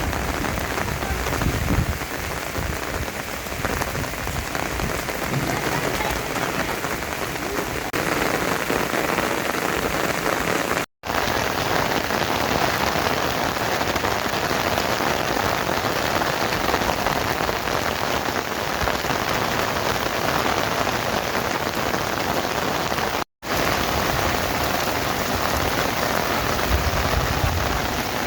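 Steady rain falling, an even, dense hiss of drops. The sound drops out for an instant twice.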